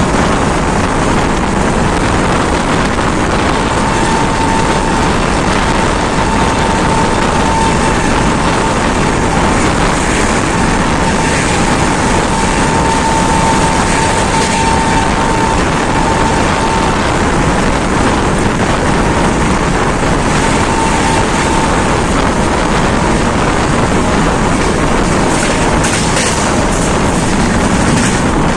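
Passenger train running at speed, heard from an open door or window of the moving coach: a steady, loud rush of wheels on the rails and wind buffeting the microphone. A faint steady whine comes and goes in the first half.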